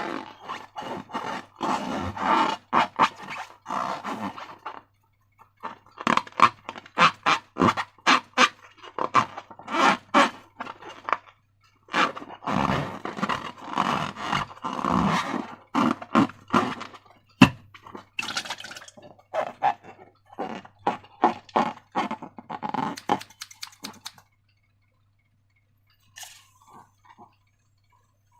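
Slime being squished and worked by hand: quick runs of wet crackles, clicks and squelches. It pauses for a few seconds near the end.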